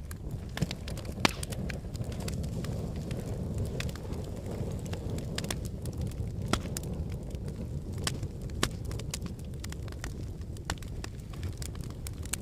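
Wood logs burning in a fireplace: a steady low rumble of flames with irregular crackles and pops, three of them much louder.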